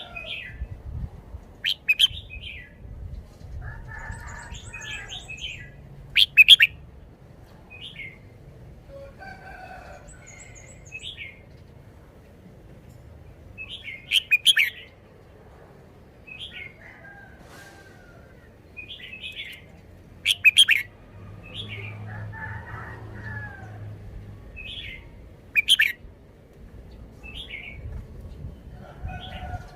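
Red-whiskered bulbul singing short, chirpy whistled phrases every second or two. About five loud, sharp sounds stand out above the song.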